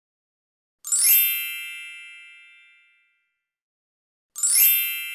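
A bell-like ding struck twice, about three and a half seconds apart, each ringing out and fading over about two seconds.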